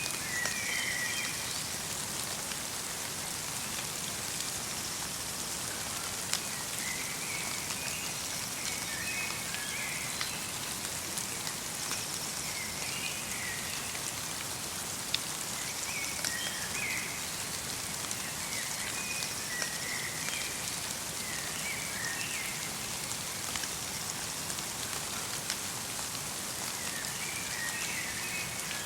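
Steady light rain mixed with snow, with scattered sharper drops. A small bird twitters in short phrases every few seconds.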